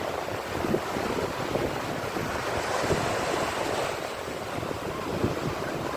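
Sea waves surging and breaking, a continuous rush of surf that swells and eases irregularly.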